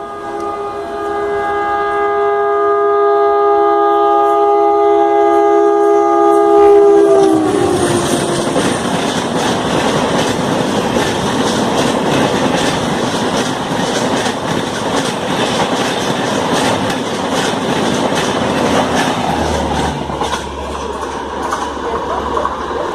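Tejas Express diesel locomotive's air horn held in one long continuous chord, dropping slightly in pitch as the locomotive passes at speed about seven seconds in. Then the coaches rush through with rapid rail-joint clickety-clack, and a low steady hum comes in near the end.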